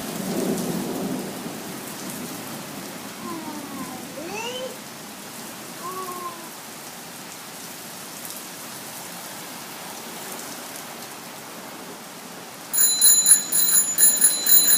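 Heavy rain falling steadily, with a low rumble of thunder at the start. Near the end a loud, high-pitched, rapidly pulsing ringing starts and becomes the loudest sound.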